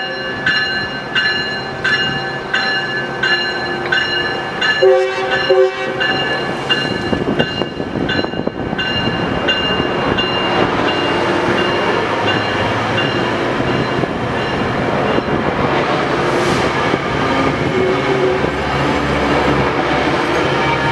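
A diesel train's horn blows one short blast about five seconds in while a bell rings steadily, a little under two strikes a second. After about ten seconds the rumble of the train moving through grows and takes over, with its wheels clacking on the rails.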